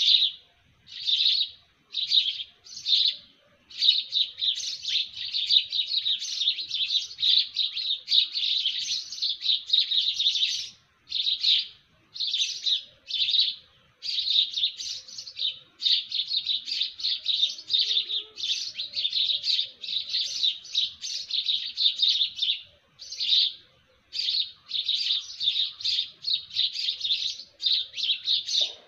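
Small birds chirping in rapid, dense bouts of high-pitched notes, broken by short pauses of under a second.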